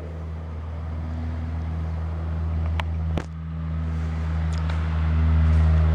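A steady low mechanical hum with a few even overtones, slowly growing louder, with two sharp clicks about three seconds in.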